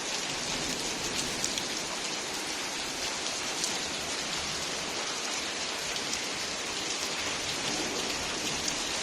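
Heavy rain falling steadily and hard, a dense hiss of rain on hard surfaces with scattered louder drop ticks.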